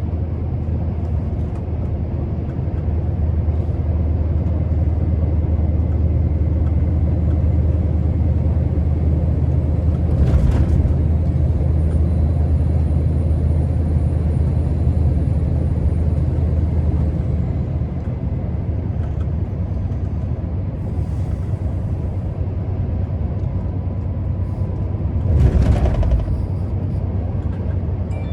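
Scania R650's 16-litre V8 diesel running steadily as the truck drives along. There are two brief louder noises, one about ten seconds in and a stronger one near the end.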